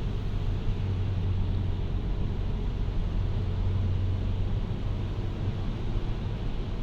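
Car driving in heavy rain: a steady low rumble of engine and tyres with an even hiss of rain and wet road.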